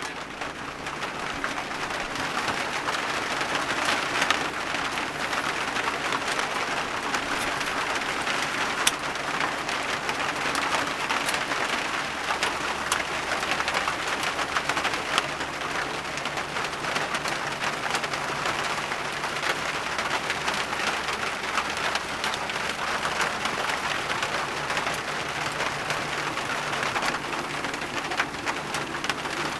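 Sandblasting metal toy parts: a steady hiss of abrasive blasting with fine grainy pattering and scattered light ticks.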